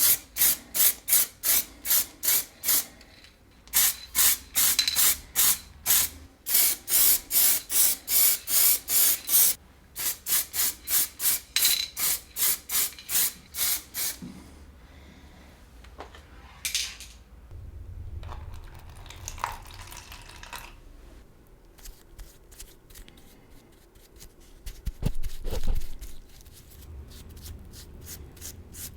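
Rapid back-and-forth rasping strokes of hand abrading, about three to four a second, in three runs over the first fourteen seconds. Then quieter handling noises with a low thump about twenty-five seconds in.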